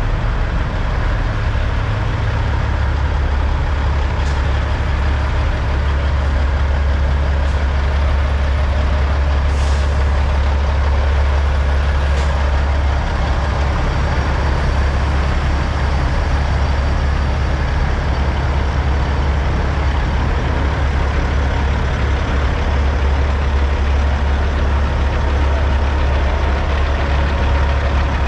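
Heavy diesel semi-truck engines idling with a steady, deep rumble. A few brief sharp sounds and a short hiss come about ten seconds in.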